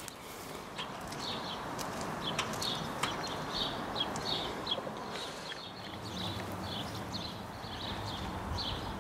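Small birds chirping, short high chirps repeating a couple of times a second, over a steady low outdoor background hum, with a few faint clicks.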